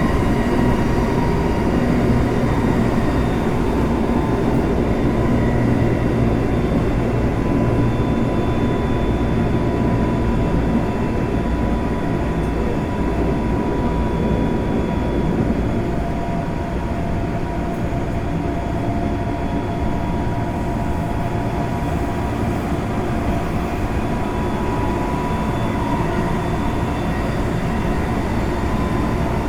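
Running noise inside a Semboku Rapid Railway 5000 series electric train in motion between stations: steady wheel-on-rail rumble with several steady whining tones from the drive, a lower tone joining about halfway through.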